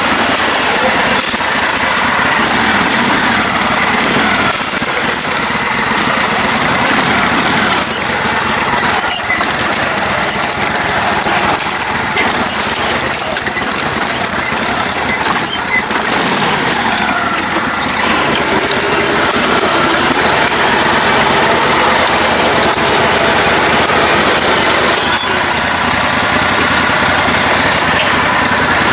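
Engine of a lifted, modified riding lawn mower running steadily as it is driven off-road, with scattered clicks and knocks for a while in the middle.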